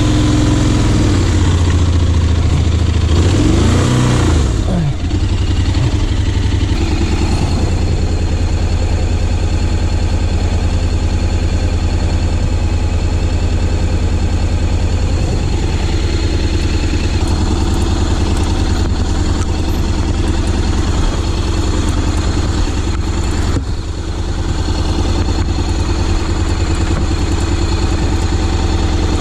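Honda X-ADV 750's parallel-twin engine running, the revs rising and falling in the first few seconds and then holding steady.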